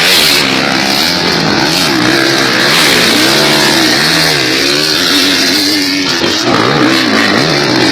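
Several motocross dirt bikes racing, their engines revving up and down in overlapping rises and falls.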